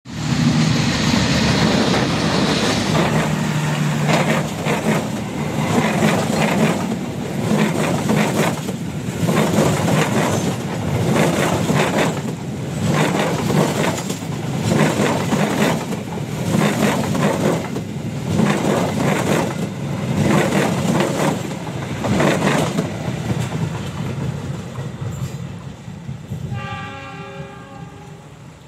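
A passenger train passing close by on ballasted track, with a steady rumble and a rhythmic clickety-clack of the coaches' wheels over the rail joints, fading away as the last coach goes past. Near the end a short horn blast sounds from another approaching train.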